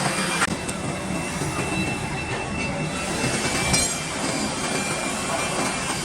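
Steady metalworking machine noise with a thin, constant high-pitched squeal running through it and a couple of light clicks, as a brake drum is worked.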